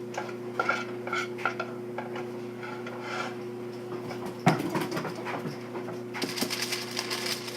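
A spoon clinking and scraping against a cooking pan as no-bake cookie mixture is scooped out, with scattered taps, one louder knock about halfway through and a longer stretch of scraping near the end. A steady low hum runs underneath.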